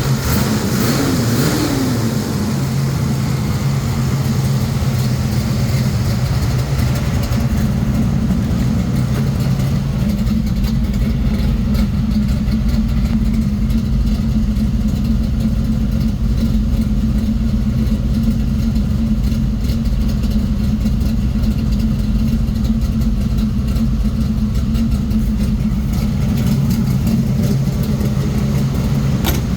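1979 Chevrolet Monte Carlo's small-block 400 V8 idling steadily through its newly finished exhaust, with one short rise and fall in pitch about a second in.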